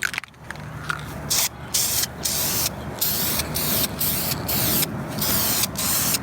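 Aerosol can of clear coat spraying in a string of short hissing bursts, about two a second, starting about a second in: a light first coat going onto a sanded headlight lens.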